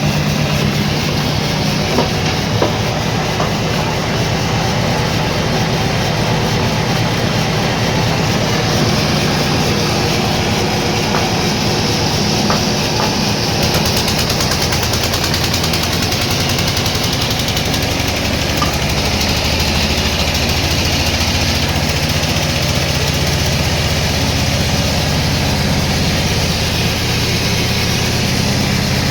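Sawmill machinery running: a steady, loud mechanical drone with a low hum.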